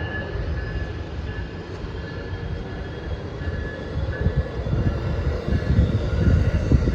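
Northeast Regional passenger train running, with a steady high whine over a low rumble; the rumble grows louder and more uneven in the second half.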